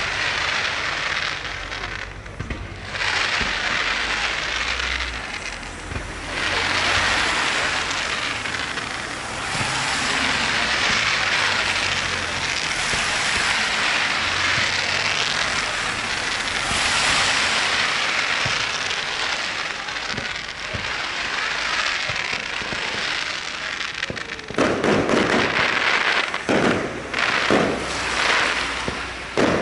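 Fireworks display: a long stretch of dense, continuous crackling, then, near the end, a rapid run of sharp, loud bangs.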